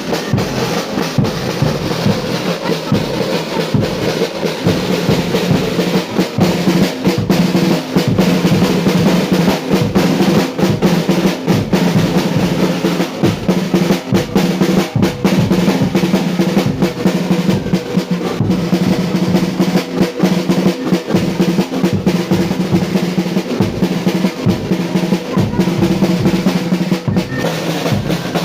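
A live percussion band playing: snare and bass drums beaten in a fast, dense, roll-like rhythm, over a steady held melodic line.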